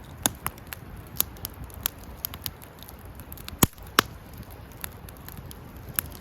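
Wood campfire crackling, with irregular sharp pops, the two loudest a little past the middle, over a steady low rumble.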